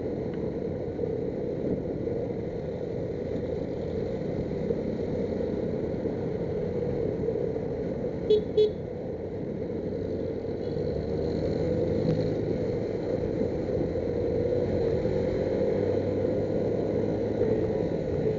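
Heavy road traffic running steadily, with two short horn toots in quick succession about eight seconds in.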